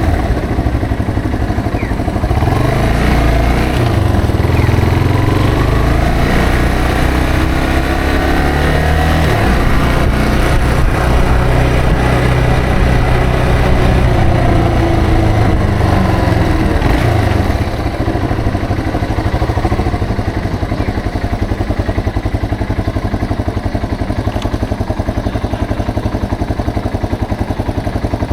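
Yamaha TW225's single-cylinder four-stroke engine pulling through the gears, its pitch rising and breaking at a shift. It then holds steady and winds down about two-thirds of the way in, settling to a slower, even idle beat.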